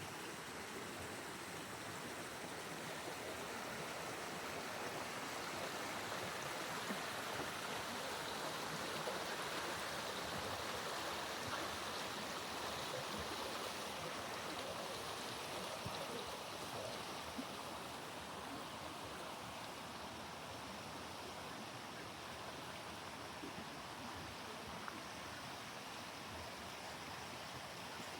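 A stream flowing, a steady rush of water.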